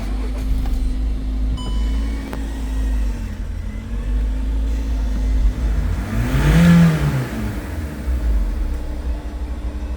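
Skoda Octavia's 1.6 TDI (CAYC) four-cylinder common-rail diesel running at idle and blipped gently three times, then revved higher once about seven seconds in before dropping back to idle.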